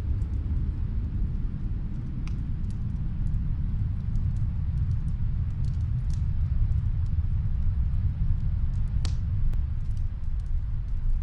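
Steady low rumble of snowstorm wind, with scattered faint crackles and pops of a wood fire, the sharpest pop about nine seconds in.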